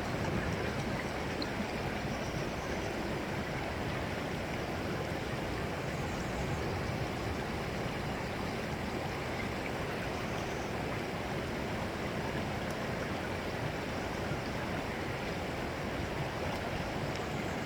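Steady sound of running water: a continuous even rush with no breaks or distinct splashes.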